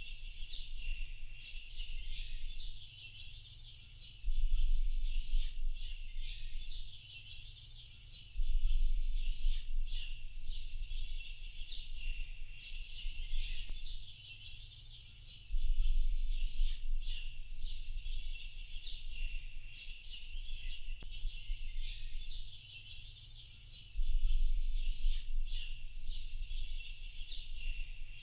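A dense chorus of many small birds chirping and twittering without pause, high-pitched. Underneath, a low rumble cuts in suddenly several times and fades back down.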